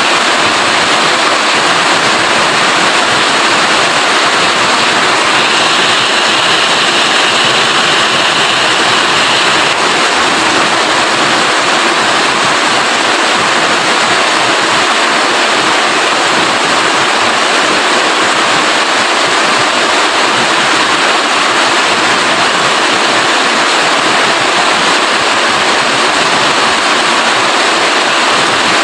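Steady, loud hiss of heavy rain falling, turning a little brighter for a few seconds about six seconds in.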